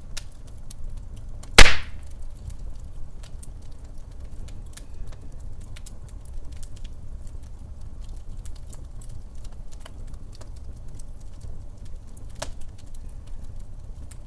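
Wood fire in a fireplace crackling, with many small snaps over a low rumble. One loud pop comes about a second and a half in, and a smaller pop near the end.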